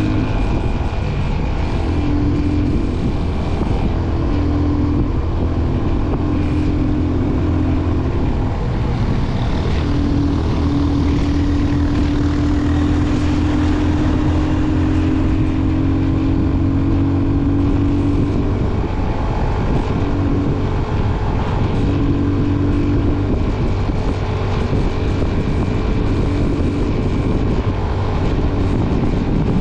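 Motorcycle engine running at a steady road speed, a continuous drone that drifts slightly in pitch, over road and wind noise.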